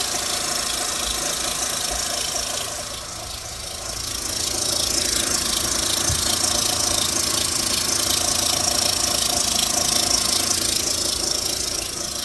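Mitsubishi Lancer Ralliart's 2.4-litre four-cylinder engine running with a fast rattling tick over its hum: the strange engine noise whose cause the owner cannot find. It dips briefly and then grows louder about four seconds in.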